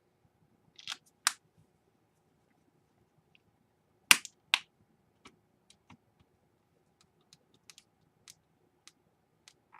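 Sharp clicks and light taps from handling small laptop parts and screws against the plastic case: two clicks about a second in, the two loudest around four seconds, then a scatter of faint ticks.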